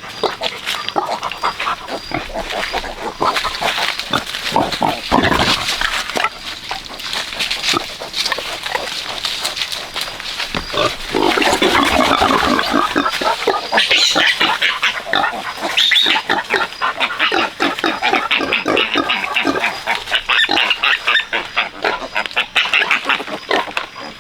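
A sow and her newborn piglets grunting and squealing in many short overlapping calls, busier and louder from about eleven seconds in.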